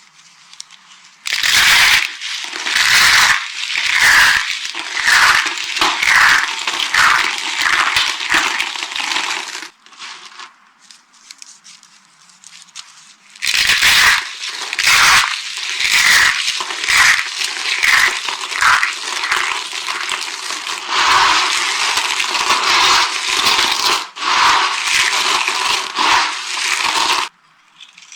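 Dry soap being crushed and crumbled, a dense crackling crunch made of many small cracks. It comes in two long runs with a quieter pause of a few seconds between them.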